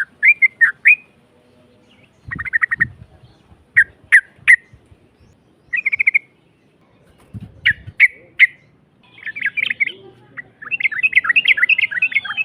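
Yellow-vented bulbul (trucukan) singing: short, bubbly, rough-voiced phrases repeated every second or two, running into a longer, faster chattering run near the end. A few low thumps underneath, about two seconds in and again before eight seconds.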